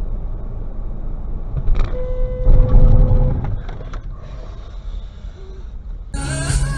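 Low road and engine rumble in a moving car, heard on a dashcam recording. About two seconds in, a car horn sounds one steady note for over a second.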